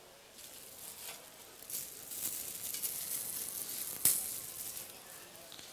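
Faint sizzling and crackling of food cooking in a hot pan, swelling after the first second or so, with one sharp click about four seconds in.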